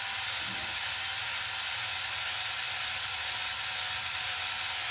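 Battery drill spinning a cylinder hone inside an engine cylinder: a steady, high-pitched rasping whir of the stones on the cylinder wall over a faint motor hum. The hone is breaking the glaze and putting a crosshatch on the bore so new piston rings will seat.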